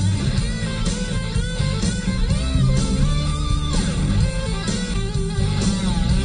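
Hard rock music with an electric guitar lead playing bent notes over bass and drums.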